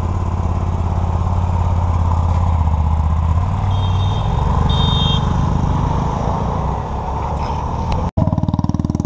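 Motorcycle engine running steadily, with two short high chirps around the middle. The sound cuts out for an instant about eight seconds in and comes back as a more pulsing engine beat.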